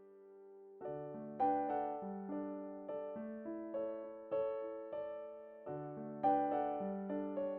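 Background music on electric piano: struck notes that die away in a steady rhythm, coming in about a second in after a short lull.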